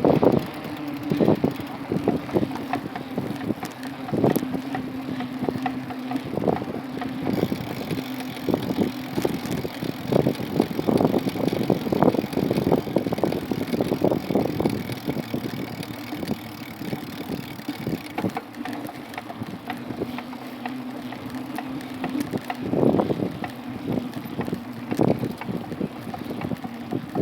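Wind buffeting the microphone while riding a bike, in irregular gusts and knocks over a steady low hum.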